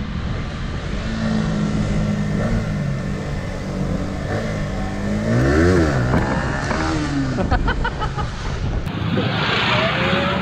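A Yamaha Vixion R's single-cylinder engine running on a ride, heard from an on-bike camera with wind and road noise. About halfway through it revs up and the pitch drops away again. Near the end the sound cuts to motorcycles passing close by on the road.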